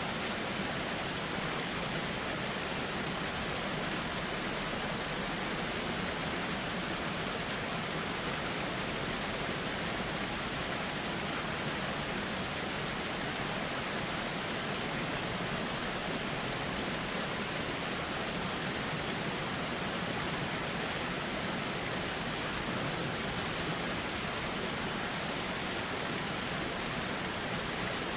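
River water flowing, a steady even rush with no changes.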